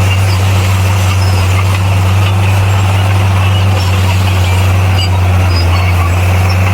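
Diesel engine of a heavy earthmoving machine running steadily under a low, even drone.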